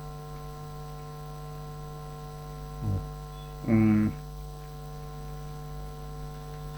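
Steady electrical mains hum in the recording, with a brief murmur from a man's voice a little past the middle.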